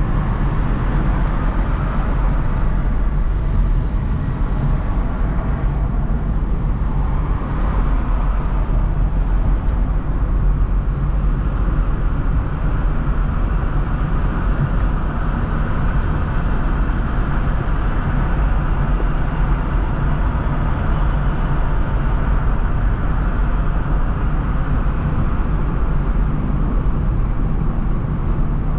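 A car driving on city roads: a steady low rumble of engine and tyre noise, with a higher road hiss that swells and fades now and then.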